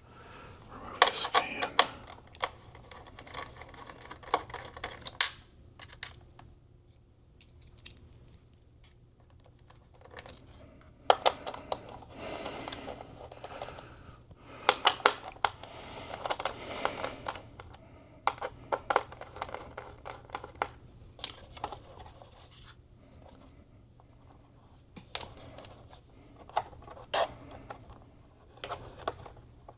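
Small plastic and metal clicks, taps and scrapes of hands working inside an opened iMac while fitting the SATA cable to the SSD. They come in irregular clusters, with short quieter gaps between.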